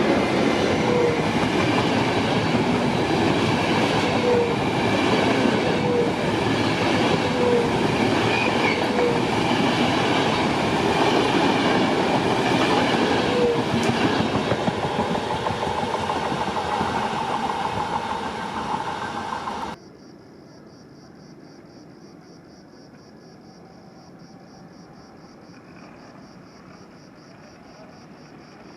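A train passing through a station: a loud, steady rush of wheels on rails with short squeaks every second or so. About twenty seconds in it cuts off abruptly, leaving a much quieter background with a steady, pulsing high buzz.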